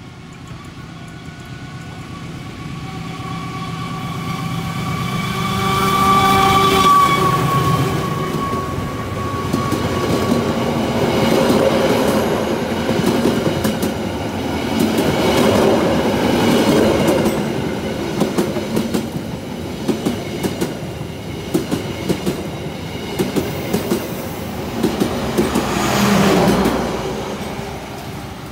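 Train passing at close range. A steady pitched tone comes first and the sound builds for about seven seconds. Then the wheels clatter over the rail joints in sharp, regular clicks.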